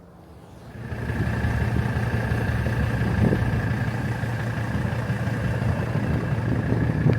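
Mercedes-Benz W123 wagon's five-cylinder turbodiesel engine running steadily, coming up about a second in, with a steady high whine over the low engine note. It cuts off abruptly at the end.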